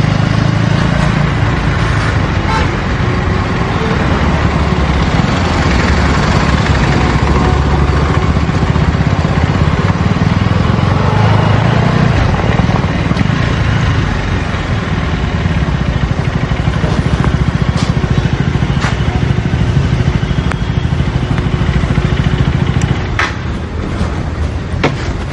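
KTM Duke 250 Gen3's single-cylinder engine running through its stock exhaust while riding, the note dipping briefly about halfway and again near the end.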